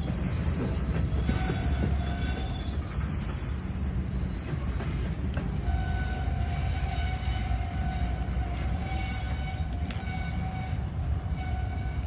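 Freight train cars rolling slowly with steel wheels squealing against the rail over a steady low rumble. A high-pitched squeal fades out about five seconds in, and a lower, steadier squeal carries on after it.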